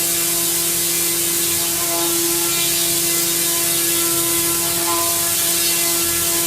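Small engine of a single-engined rotary-wing micro air vehicle running at a steady speed: a constant buzzing hum with a strong hiss above it.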